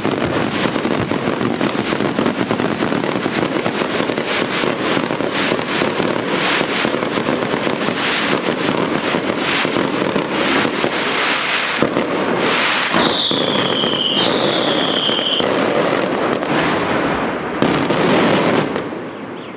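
Daylight fireworks going off in a dense, continuous barrage of bangs and crackling. Two falling whistles cut through about two thirds of the way in. The barrage dies away just before the end.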